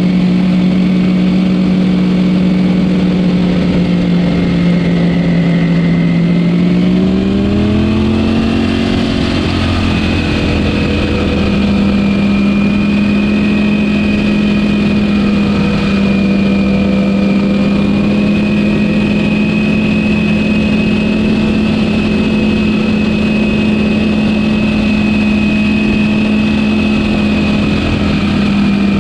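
Ducati Panigale V4S V4 engine through its stock exhaust, running at steady revs while riding. About seven seconds in the revs rise smoothly, then hold steady again.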